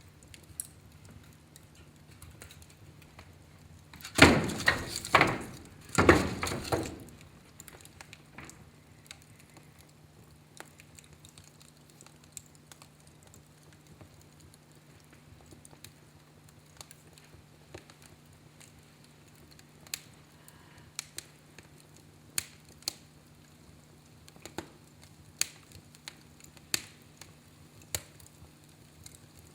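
Wood fire burning in a fireplace, crackling and popping with scattered sharp snaps, with a louder, denser run of crackling about four seconds in that lasts a few seconds. A faint steady low hum sits underneath.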